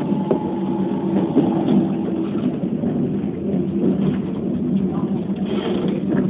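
Keikyu New 1000 series electric train running along the line, heard from inside: a steady rumble of running noise, with a steady tone over it that fades out about two seconds in.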